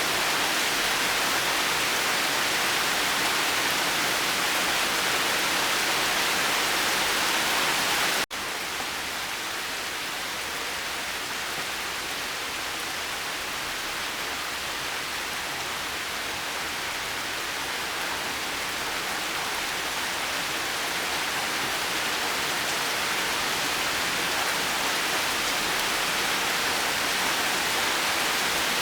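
Steady rain hiss, an even wash of falling rain. About eight seconds in, the sound cuts out for an instant and comes back a little quieter, like a splice in the recording, then slowly grows again.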